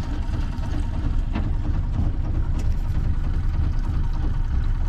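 Small outboard motor, new and still in its break-in period, idling steadily as it warms up.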